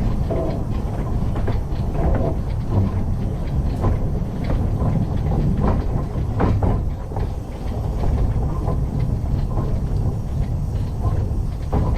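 Narrow-gauge train running along the line: a steady low rumble with irregular clanks and rattles from the wheels and carriages on the track.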